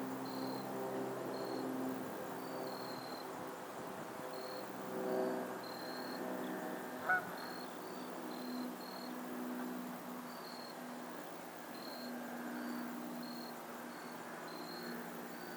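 A group of geese calling low and soft, with many overlapping honks and one louder, sharper honk about seven seconds in. A short, high chirp repeats about twice a second behind them.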